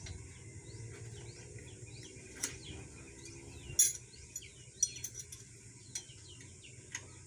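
Small birds chirping repeatedly over a low steady hum, with a few sharp metallic clinks of hand tools. The loudest clink comes a little past halfway.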